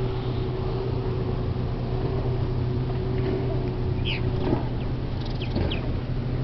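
Steady low drone of a passing lake freighter's engines. A steady higher tone in it stops about four and a half seconds in, and a few short high chirps come near the middle.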